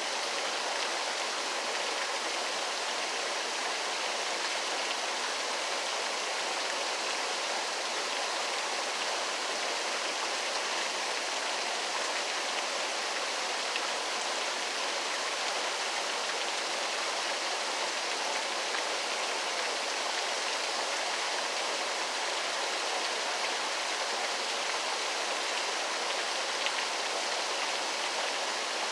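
Waterfall: a steady, unbroken rush of falling water, hissy, with little deep rumble.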